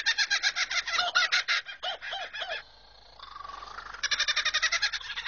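Kookaburra laughing call: fast runs of cackling notes, about eight a second. They break off about two and a half seconds in and pick up again near the end after a brief softer call.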